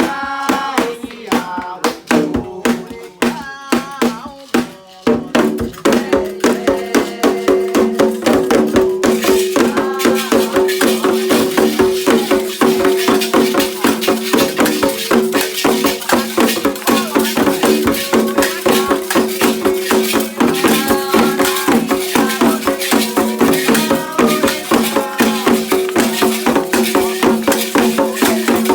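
Candomblé ritual music: singing, joined about five seconds in by rattles shaken in a fast, even rhythm that runs on under the sustained voices.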